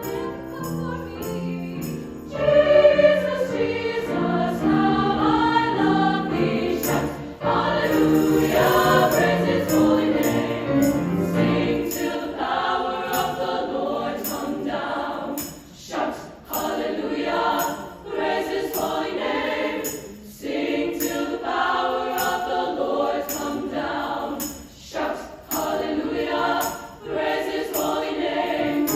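Treble choir singing a gospel-style choral piece in three upper-voice parts (SSA), over a steady beat of high jingling percussion, with a few brief breaks between phrases.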